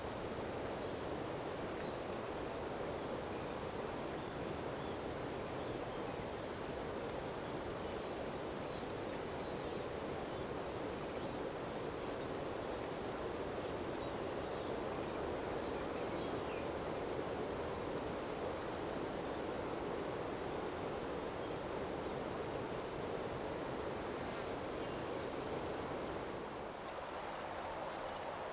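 Crickets trilling steadily in a high, continuous chorus over monsoon paddy fields, with a steady low background hum. Two loud, short buzzing calls cut in about a second and a half and about five seconds in.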